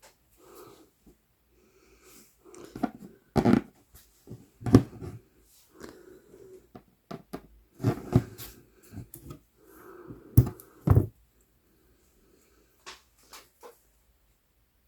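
Embroidery floss pulled through Aida cross-stitch fabric with a needle: soft rasping draws of thread, each ended by a sharp pop or tap as the needle pierces the cloth or the thread snaps taut, several times.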